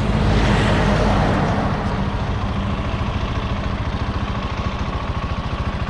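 Motorcycle engine running steadily at low revs, with a rushing noise that swells and fades over the first couple of seconds.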